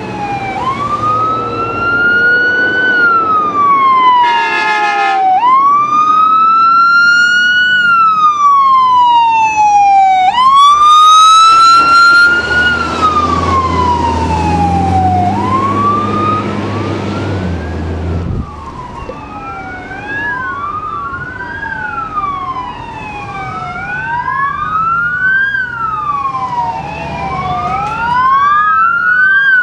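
Emergency vehicle sirens responding code 3: a siren in a slow rising-and-falling wail, broken by two short horn blasts about four and ten seconds in, over a heavy engine rumble. From about halfway, two sirens sweep faster and out of step with each other.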